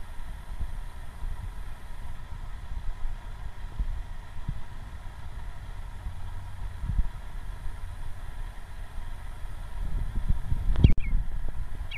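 A low rumble with scattered thumps, and a small bird giving two short chirps near the end.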